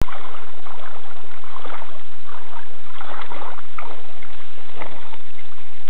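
River water splashing and sloshing in a run of irregular splashes, cut off above the upper range by the recording's limited bandwidth.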